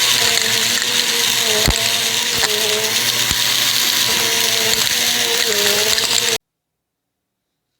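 Bissell vacuum cleaner running at full suction, its pitch wavering as the airflow changes, with a few sharp clicks from debris being sucked up. The sound stops abruptly about six seconds in.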